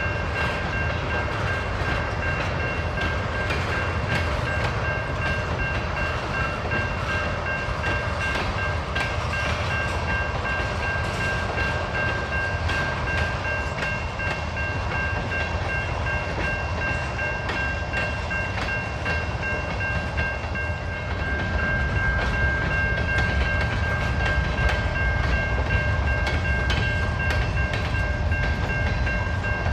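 Railroad cars rolling past on the rails: a steady low rumble with many short clicks, and a steady high-pitched whine over it. It grows a little louder about two-thirds of the way through.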